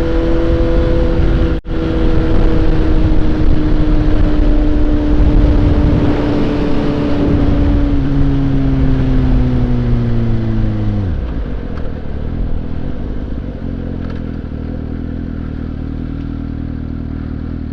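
Suzuki GSX-S750's inline-four engine running at a steady cruise in third gear, its pitch sagging slowly, with a brief break in the sound about two seconds in. About eleven seconds in the engine note falls away sharply as the bike slows, leaving a quieter, lower steady running sound.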